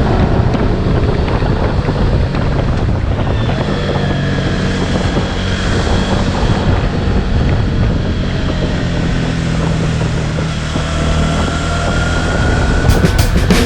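Motorcycle engine running under way, with wind buffeting the microphone; the engine note rises slowly near the end.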